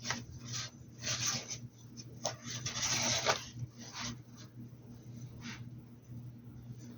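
Paintbrush scrubbing in a string of short rubbing strokes, the longest and loudest about three seconds in, fewer and fainter after that, over a steady low hum.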